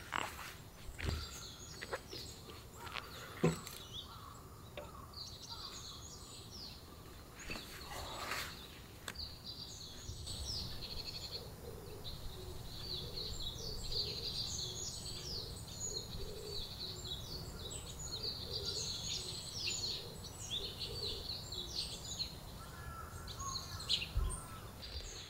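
Many small birds chirping in quick, overlapping calls, with a few sharp knocks in the first several seconds and a low steady rumble underneath.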